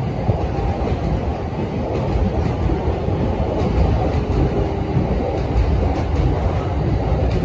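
Steady low rumble and hum of rail traffic at a station platform, with a JR East E231 series commuter train standing at the platform, doors open; a few faint clicks.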